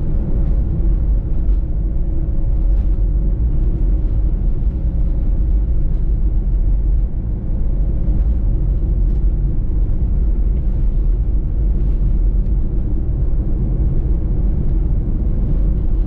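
Steady low rumble of a minivan driving on a main road, engine and tyre noise heard from inside the cabin.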